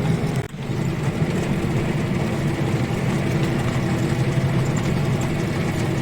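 ZIL-130 truck's V8 petrol engine running steadily, with a brief drop in sound about half a second in.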